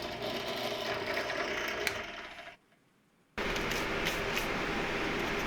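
Benchtop drill press running. Its sound fades and drops out to near silence for under a second about halfway through, then resumes as a steady running sound with a low hum.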